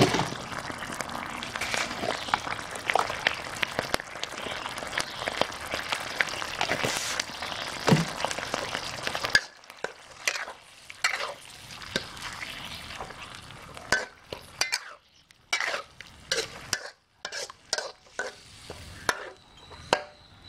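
Canned fish in tomato sauce sizzling in a wok while a spatula scrapes and stirs it, stirring in a heap of sugar. The sizzle is dense for about the first nine seconds, then drops away, leaving separate scrapes and clicks.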